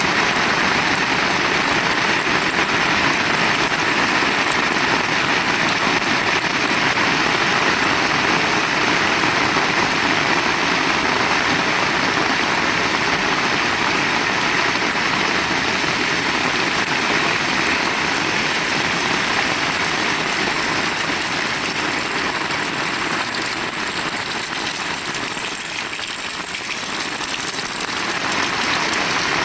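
Heavy rain falling and pattering on surfaces, a steady dense hiss that eases slightly near the end.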